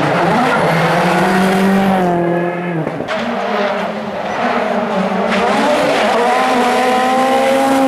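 Rally car engine at high revs under full throttle. It lifts off sharply about three seconds in, pulls hard again, and drops once more near the end.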